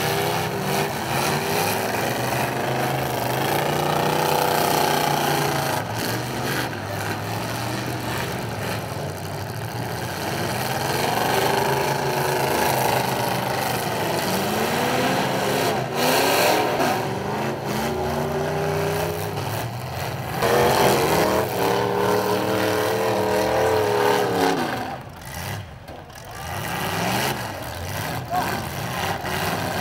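Several demolition-derby car engines revving hard, their pitch climbing and falling again and again as the cars accelerate and ram each other. A few sharp knocks of impact come through, the clearest about sixteen seconds in.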